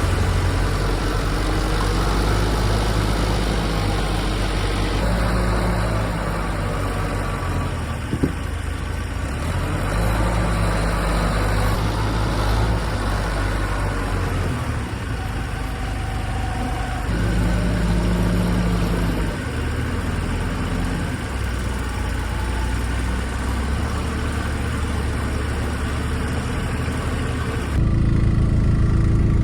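Engine of working machinery running, its speed stepping up and down several times and rising again near the end.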